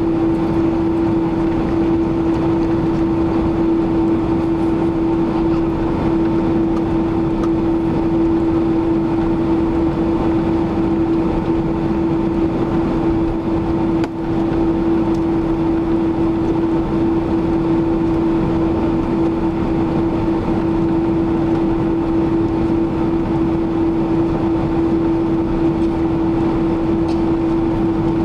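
Boeing 767-300ER cabin noise heard from a window seat by the wing: a steady rush of engine and airflow noise with a strong, constant engine tone, the engines holding a steady thrust setting. The loudness dips briefly about halfway through.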